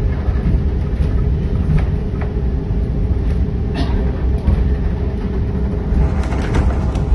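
Steady low rumble of a heritage railroad passenger coach rolling along the track, with a few light clicks and knocks.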